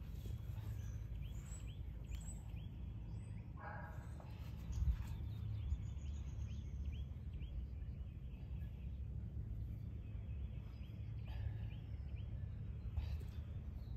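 Small birds chirping over and over above a steady low rumble, with a brief pitched sound about four seconds in.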